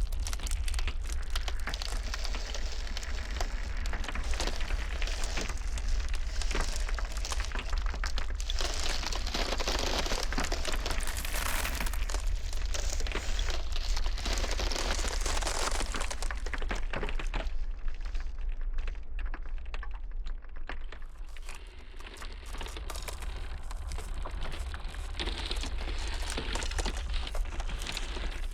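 Glacial ice crackling in a dense, continuous run of small cracks and clicks over a steady low rumble. The crackling thins out for a few seconds past the middle, then picks up again.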